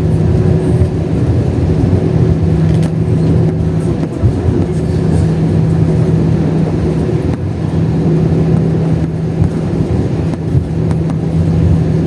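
Airbus A321 cabin noise on the ground just after landing: a loud, steady rumble of the engines and the aircraft rolling, with a low steady hum.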